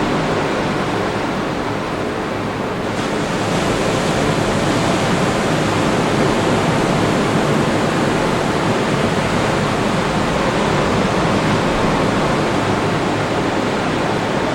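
Atlantic Ocean surf washing onto the beach: a steady rush of noise that dips slightly about two seconds in and swells back a little after.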